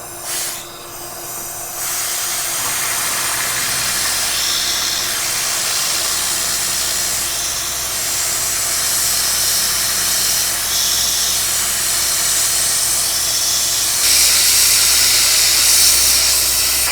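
Compressed air blowing steadily on an end mill as it cuts in a Bridgeport milling machine, a loud hiss over the steady hum of the mill; the air is there to cool the overheating cut and clear chips. The hiss starts about two seconds in and gets louder near the end.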